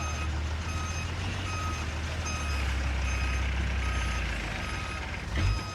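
Heavy machine's reversing alarm beeping evenly, about every 0.8 seconds, over a diesel engine running low and steady; the engine grows louder for a few seconds midway. A single loud knock comes near the end.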